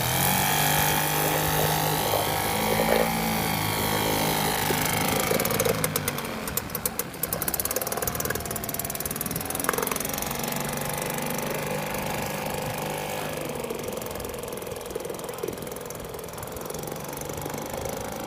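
1969 British Seagull two-stroke outboard motor running just after starting, its pitch wavering for the first few seconds and then settling to a steady note. It grows somewhat quieter over the second half.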